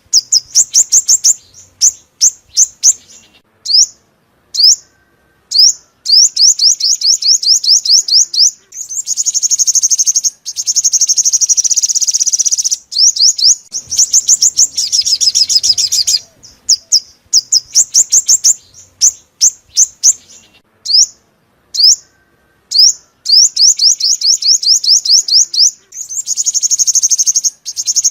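Sunbird song: rapid series of thin, high, up-slurred notes, some single and some run together into fast trills, in phrases broken by short pauses. The same sequence comes round again about halfway through, as in a looped lure recording.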